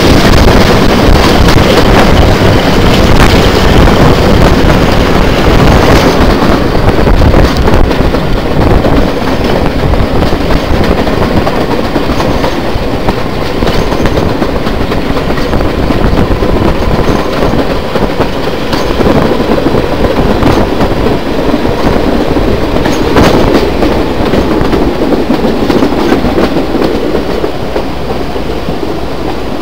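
A passenger train running along the line, heard from outside the carriage: a steady rumble of wheels on rails with a few sharp clicks, growing gradually quieter towards the end.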